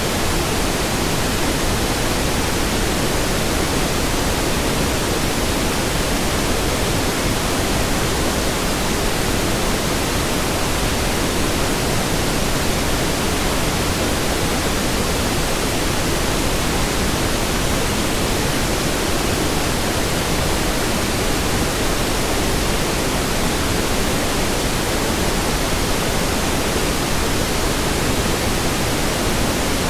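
Steady pink noise: an even, unbroken hiss spread across all pitches, weighted toward the low end.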